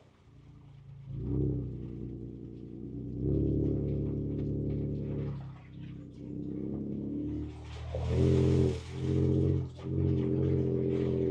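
Ford Ranger Raptor's twin-turbo V6 engine, heard from inside the cab, pulling and easing off over a slow off-road trail. It comes in about a second in, surges near the end, and twice cuts out briefly as the throttle is lifted.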